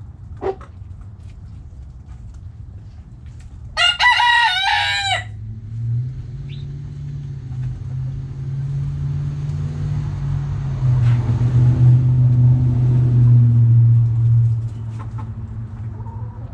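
A rooster crows once, briefly, about four seconds in. After it, a low engine hum builds over several seconds and drops away near the end.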